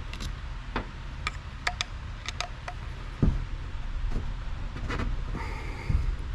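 Light metallic clicks and taps of hand tools and small parts as a lawn mower carburetor is taken apart on a workbench. There are two duller knocks, one about three seconds in and one near the end, over a steady low hum.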